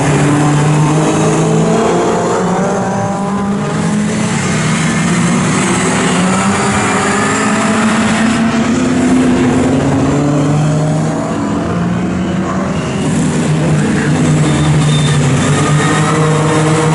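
Several historic touring car engines racing together, their notes overlapping and rising and falling in pitch as the cars accelerate, lift and pass.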